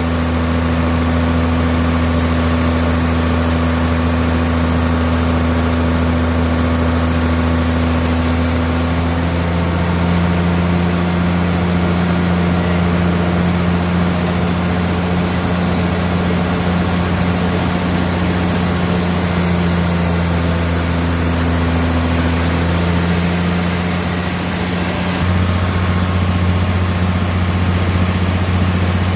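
Sawmill bandsaw machinery running steadily: a loud, continuous low hum with an even hiss above it. Its tone shifts slightly about 25 seconds in.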